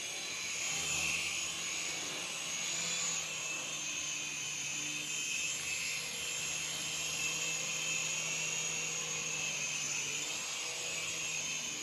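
Small electric motors and propellers of an infrared remote-control toy airplane whining steadily in flight, the pitch wavering slightly.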